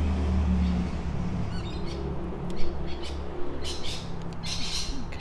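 Small birds chirping and twittering in short bursts, heard from outside, over a low steady hum that fades out just after halfway.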